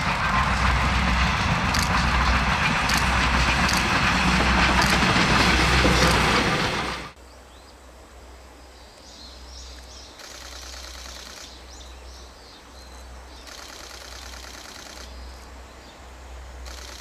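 Steam-hauled train, C58 239 steam locomotive, passing close by: a loud, even rushing noise with faint beats about once a second, cut off suddenly about seven seconds in. After that, quiet outdoor background with a few bird chirps.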